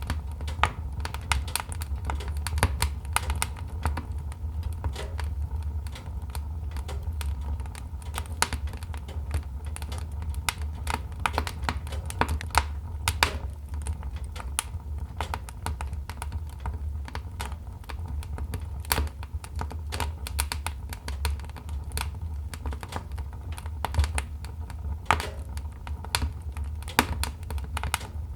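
Wood fire crackling: irregular sharp pops and snaps, many a second, over a steady low rumble of the flames.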